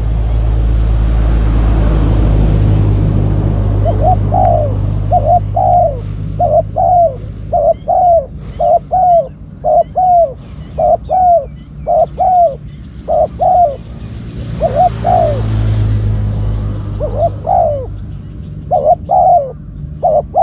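Spotted dove cooing: a long run of short, low coo notes, about two a second, starting a few seconds in, with a brief pause past the middle. A low rumbling noise sits underneath at the start and again midway.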